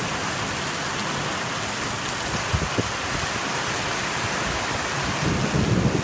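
Heavy rain pouring steadily, with a low rumble of thunder building near the end.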